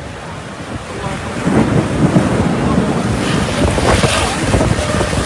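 Strong storm wind gusting over the phone's microphone, buffeting louder from about a second and a half in.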